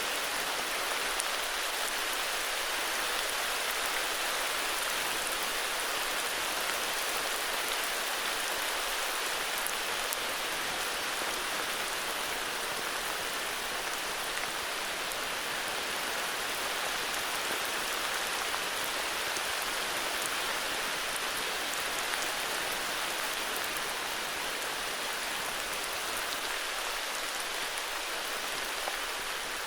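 Steady heavy rain falling, an even hiss with scattered drop patter.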